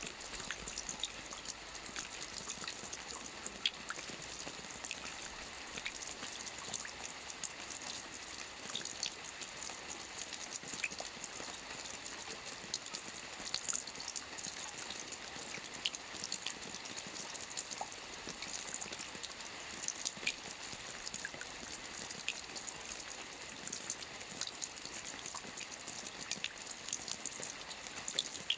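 Steady rain falling, a constant hiss with many small drops ticking sharply on a surface.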